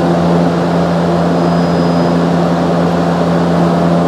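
Steady mechanical hum of a running machine, a constant low drone with no breaks.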